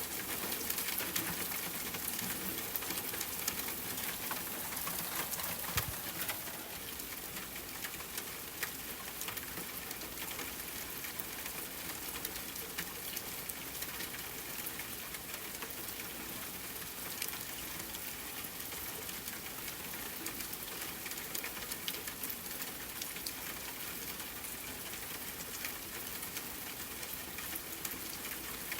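Steady rain falling on a tent, with scattered small crackles and pops of a campfire.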